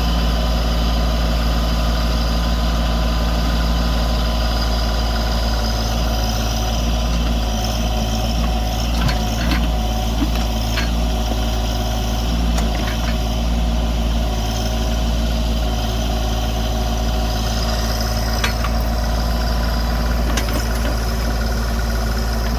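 Branson 2500 compact tractor's diesel engine running steadily while working the BH100 backhoe, with a few scattered sharp knocks around the middle and again later.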